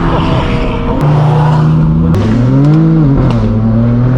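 Car engine and exhaust running loud with a steady drone whose pitch steps down about two seconds in, then briefly rises and falls again.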